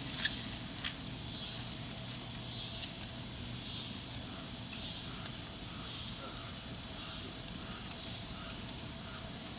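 Steady outdoor insect chorus, shrill and continuous, with a fainter lower chirp repeating about twice a second.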